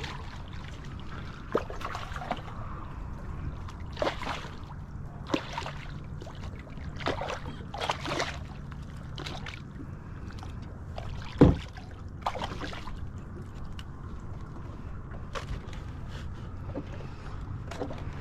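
Scattered knocks and clatter on a kayak, with one sharp, loud thump about eleven seconds in, over a steady low rumble.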